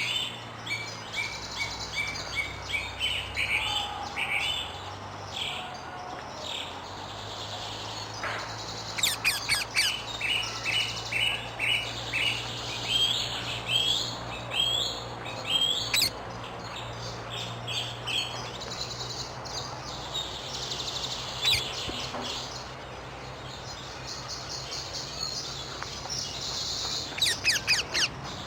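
Wild rose-ringed parakeets (Indian ringnecks) calling: a long run of repeated short, shrill calls, with quick rattling series about a third of the way in and again near the end.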